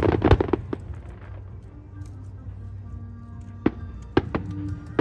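Fireworks going off: a cluster of bangs and crackling that dies away in the first second and a half, then a few single sharp bangs in the last second and a half, over background music.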